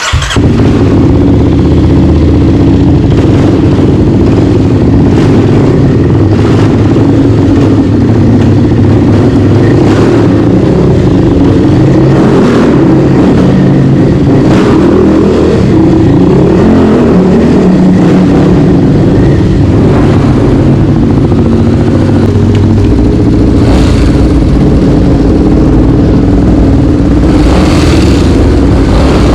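Single-cylinder four-stroke trail motorcycle engine starts abruptly and runs very loud and close, revving up and down repeatedly as it is ridden off-road.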